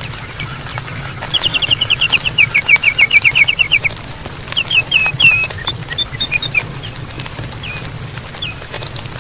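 Campfire crackling with sharp, irregular pops. Over it, starting about a second and a half in, a bird gives a rapid run of short, high notes that step down slightly in pitch, followed by a few scattered single notes.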